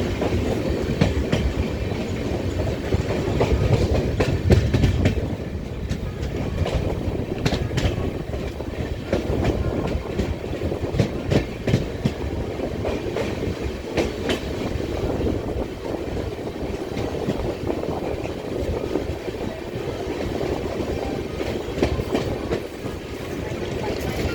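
Train running along the track: a steady rumble with irregular clicks and knocks of the wheels over the rail joints.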